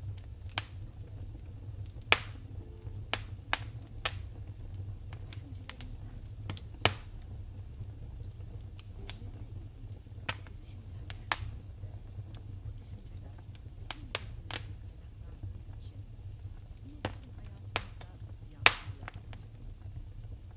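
Wood fire in a fireplace crackling, with irregular sharp pops a second or so apart, two of them louder, over a steady low rumble.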